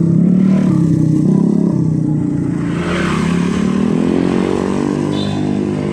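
Motor vehicle engine running close by, its pitch drifting slowly up and down.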